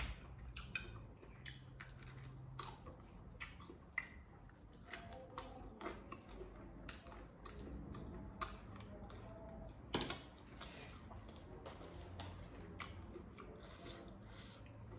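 A person chewing and crunching crispy deep-fried chicken frame up close. Soft, irregular crackles, with a sharper crunch about four seconds in and another about ten seconds in.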